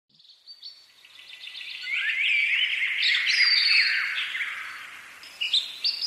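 Birdsong: several birds chirping and whistling in quick, overlapping phrases, swelling up over the first two seconds and fading away in the last two.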